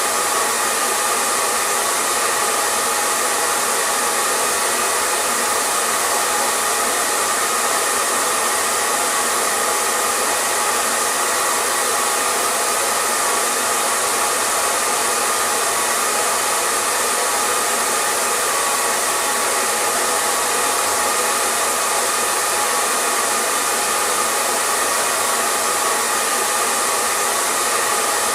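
Hair dryer running steadily, an even whooshing of blown air with a faint high whine from the motor, no change in speed.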